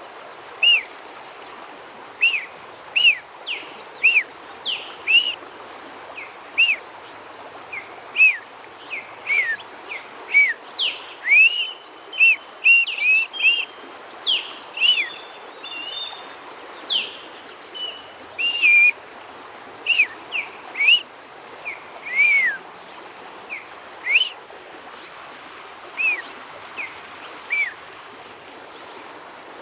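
Ospreys calling: a long series of short, high whistled chirps, each dropping sharply in pitch, about one a second, coming thickest in the middle and thinning out near the end. A river runs steadily underneath.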